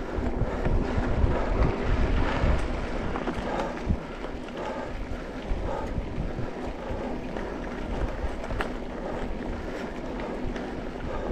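Wind buffeting the microphone while riding a mountain bike along a dirt trail, with scattered small knocks and rattles from the bike over the ground. The low rumble of the wind is strongest in the first few seconds, then eases to a steadier rush.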